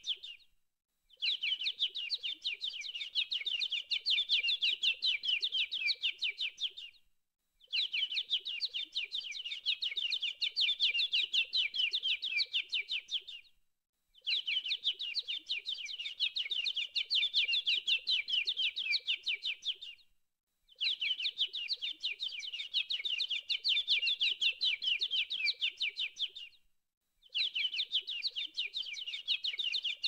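Birds chirping in a dense, rapid chorus, in stretches of about six seconds each broken by a second of silence, repeating evenly like a looped recording.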